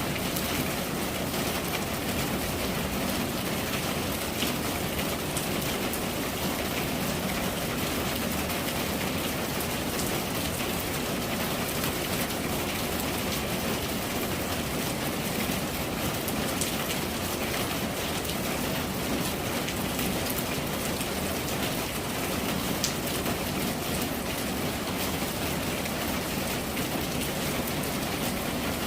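Steady rain falling, a dense even patter of drops on surfaces with occasional sharper individual drop ticks.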